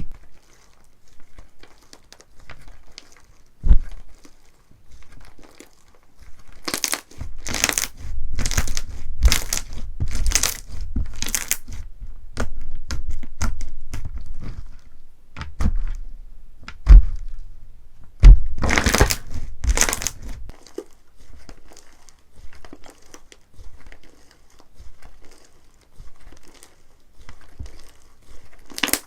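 Slime being squeezed and pressed by hand, giving irregular crackling and crinkling, louder in two stretches, with a few dull thuds.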